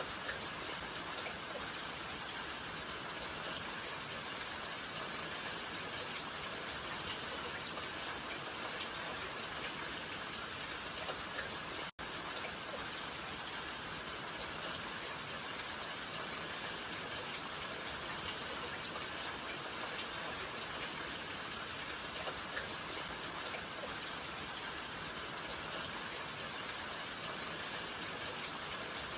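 Steady rain falling, a dense even hiss of drops with no let-up, broken once by a split-second dropout about twelve seconds in.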